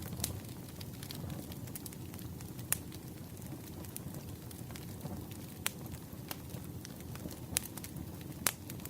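Campfire crackling: a low, steady rumble of burning wood with scattered sharp pops, the loudest about three seconds in and near the end.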